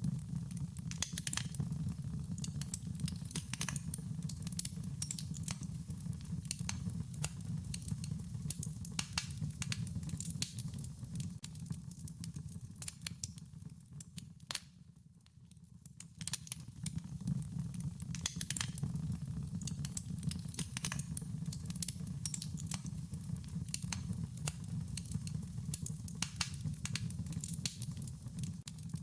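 Wood fire burning, with a steady low rumble of flames and frequent sharp crackles and pops from the burning wood; the rumble eases briefly about halfway through.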